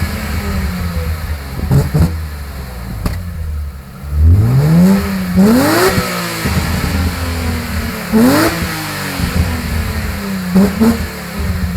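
BMW E36 M3's 3.0-litre straight-six revved repeatedly through a Hartge exhaust muffler, the pitch rising sharply and falling back to idle several times, with a few sharp cracks among the revs.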